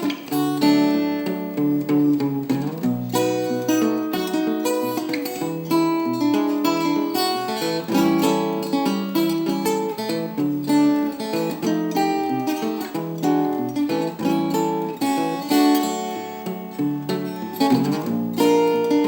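Requinto guitar played fingerstyle in Travis picking style: a steady alternating bass line under a plucked melody, notes ringing continuously.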